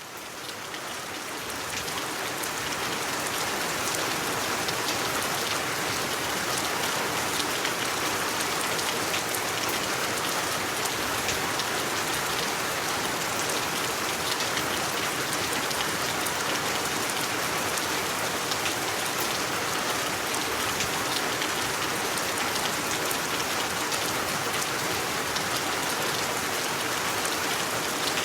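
Steady rain falling: a dense, even hiss dotted with fine drop ticks, fading in over the first couple of seconds and then holding steady.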